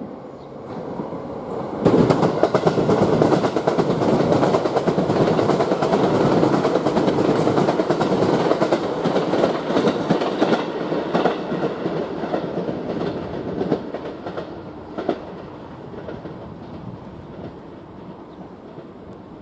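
JR East electric multiple-unit train running past, its wheels clattering over the junction's switches and rail joints. The sound jumps up about two seconds in, stays loud with a quick run of clicks for about nine seconds, then fades away.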